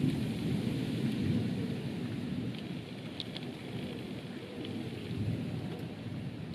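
Steady rain falling with a long, low rumble of thunder that eases off slightly over the first few seconds; a few faint raindrop ticks are heard about three seconds in.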